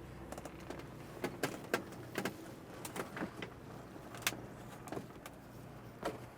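Scattered light clicks and knocks, the sharpest about four seconds in, over a faint steady hum.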